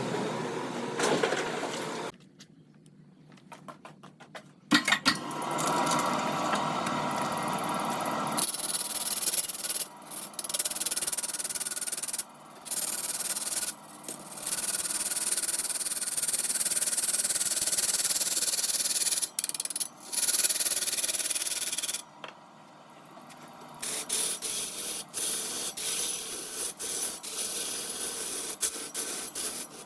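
Wood being cut and sanded on a lathe: a steady rasping, hissing noise that starts and stops abruptly several times, with two short quieter gaps.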